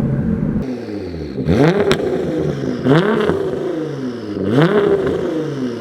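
Nissan GT-R R35's twin-turbo V6 through a Linney drag exhaust, revved three times about a second and a half apart. Each rev rises and falls in pitch, with sharp pops and bangs near its peak from a pops-and-bangs tune.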